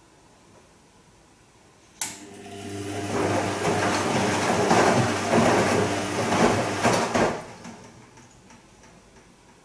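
Bosch Serie 2 Vario Perfect washing machine on its Silk cycle: a sharp click about two seconds in, then a steady mains-frequency hum and a swelling rush of water for about five seconds, stopping just after seven seconds. This is typical of the water inlet valve opening to top up the drum and then closing.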